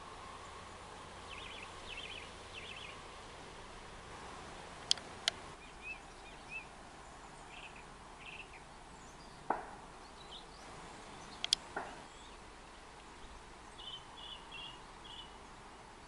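Open-air countryside ambience: a steady soft background hush with small birds calling in short runs of high notes several times, and a few sharp high clicks.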